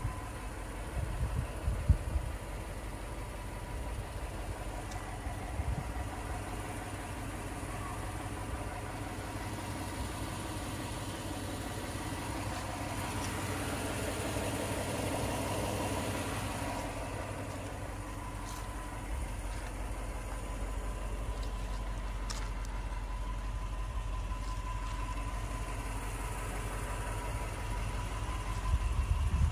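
2001 Toyota Land Cruiser engine idling steadily, a little louder for a few seconds midway as it is heard from beneath the vehicle.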